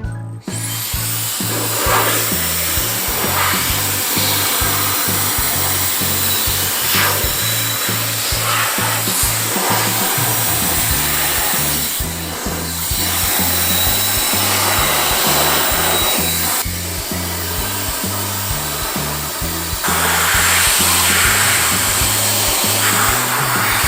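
Handheld electric mini jet fan (COLBOR AirMaxx A1) blowing, a steady rush of air with a faint high whine, switching on about half a second in. Background music with a steady beat plays under it.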